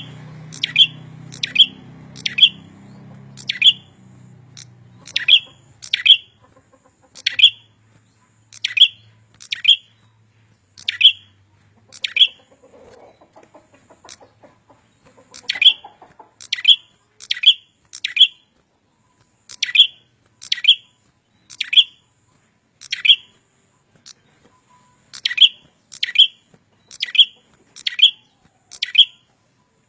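A small songbird calling: a long series of sharp, high chirps, each a quick downward sweep, repeated about once a second in runs with short pauses between them.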